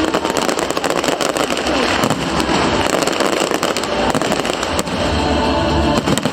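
Aerial fireworks bursting and crackling without a break, a dense stream of sharp pops and bangs.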